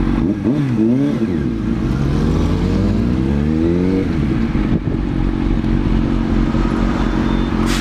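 Kawasaki ZX-6R inline-four sport bike engine running under way. The revs dip and rise briefly near the start, climb steadily for about two seconds, fall away about four seconds in and then hold steady. There is a short sharp click near the end.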